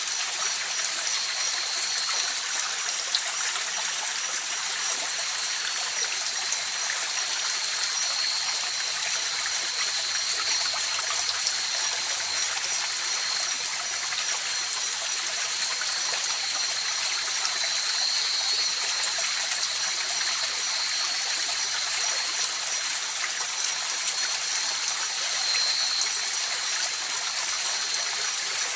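River water flowing, a steady rushing and trickling, with a faint steady high-pitched tone running above it.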